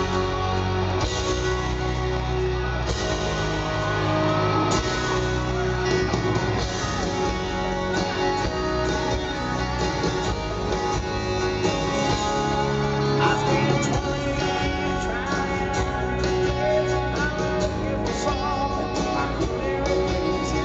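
Live rock band playing a song with guitars and singing, just after a count-in.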